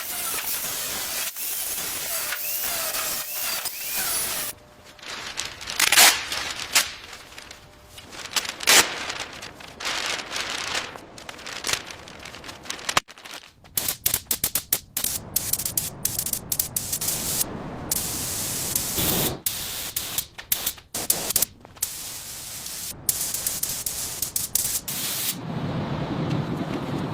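A steady hissing noise, then a rapid series of short scraping and rubbing sounds with sharp clicks, broken by abrupt cuts.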